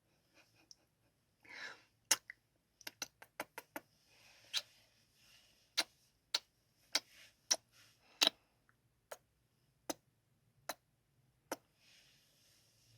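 Close-miked kissing sounds: a string of sharp, wet lip smacks, a quick run of five or six about three seconds in, then single smacks every half second to second, with soft breaths between them.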